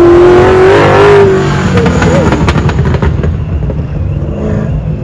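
Loud car engine running hard under load, its note held high and rising slightly through the first second, then rougher and changing as the car works through the course.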